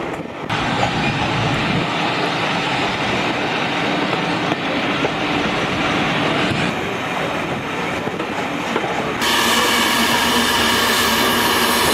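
Steam-hauled heritage train's carriages running along the line, heard at an open window: a steady rumble of wheels on the track. About nine seconds in, the sound jumps abruptly louder and several steady high squealing tones come in.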